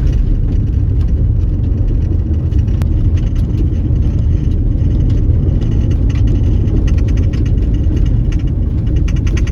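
Car driving on a dusty dirt road: a steady low rumble of tyres and engine, with light ticking that grows more frequent about six seconds in.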